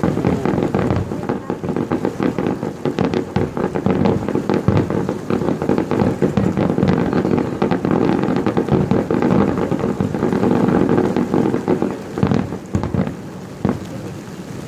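Fireworks going off in a rapid, dense barrage of bursts and crackling that thins out about twelve seconds in.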